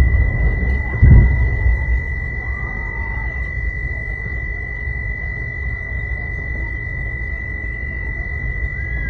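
A heavy blast about a second in, the loudest moment, just after another heavy thump, followed by a steady low rumble. A constant high-pitched tone sounds throughout.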